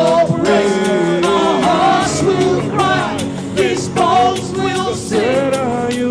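Live contemporary worship music: a band plays over a steady drum beat while a melody line, sung or played, slides up and down in pitch. No words can be made out.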